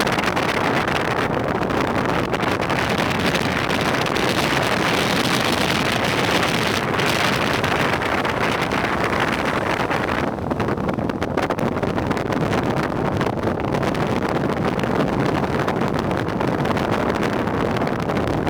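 Strong storm wind buffeting the microphone over rough, wave-tossed sea: a steady, loud rushing noise that turns a little less hissy about ten seconds in.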